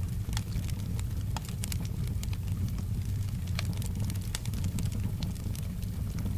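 Wood fire crackling, with frequent sharp, irregular pops over a steady low rumble, and soft rain in the background.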